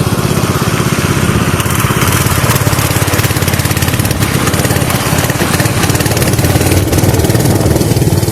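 Small engine running steadily under way, with a rapid, even firing beat.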